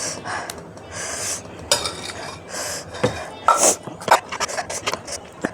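Spoon and cutlery clinking and scraping against a dish in short, irregular clicks, with close-miked chewing and mouth sounds of eating in between.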